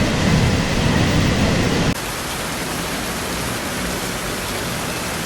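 Steady background noise with a low rumble, changing abruptly about two seconds in to a quieter, even hiss.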